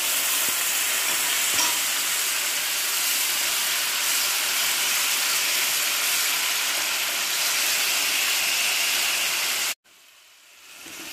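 Onion, spice and tomato masala sizzling in hot oil in a nonstick frying pan just after a quarter cup of water has gone in, with a spatula stirring through it. The steady sizzle cuts off suddenly near the end, then comes back faintly.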